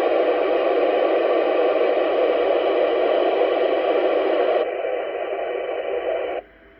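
Steady hiss of radio static from an amateur radio transceiver's speaker, with no voice on it. It cuts off suddenly about six seconds in.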